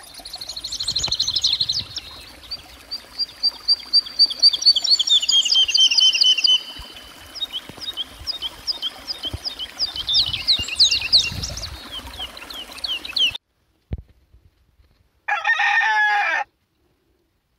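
Small birds chirping and trilling in high, quick repeated notes, which stop abruptly about 13 seconds in. A little later a rooster crows once, for just over a second.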